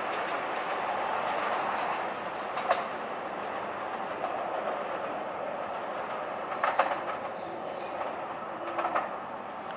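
Keisei 3000 series electric train running away along the track, its rolling noise easing slightly as it recedes. Wheels clack over rail joints once about 3 seconds in, then twice in quick pairs near 7 and 9 seconds.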